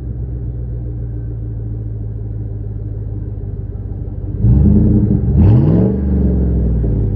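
Ford 5.4 V8 exhaust through a Thrush welded muffler, idling steadily, then blipped twice about a second apart, the pitch rising and falling back each time before settling into idle.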